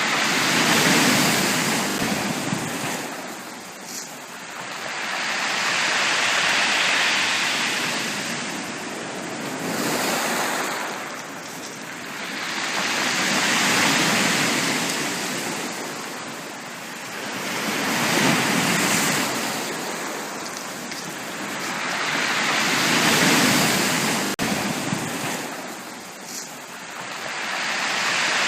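Ocean waves breaking on a beach, the surf swelling and falling away in a slow, regular rhythm, about one wave every four to five seconds.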